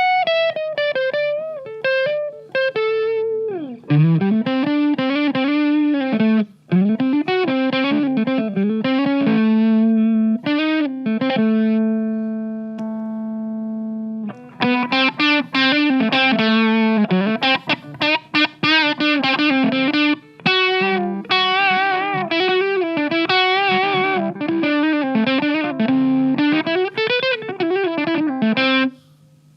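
Electric guitar (a Stratocaster) played through an MXR MC402 Boost/Overdrive pedal with overdrive on, its tone knob rolled back to cut the highs. It plays single-note lead lines with string bends, and one note is held and fades out for several seconds about halfway through.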